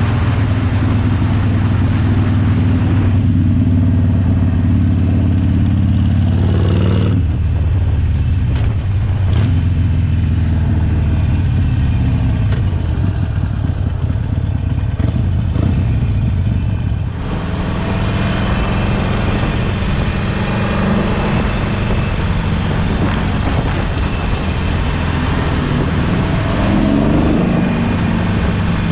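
Harley-Davidson Sportster Forty-Eight's air-cooled 1200 cc V-twin running through a Jekill & Hyde valved exhaust while riding. The engine note changes about seven seconds in and dips briefly a little past halfway before picking up again, and it rises in pitch near the end.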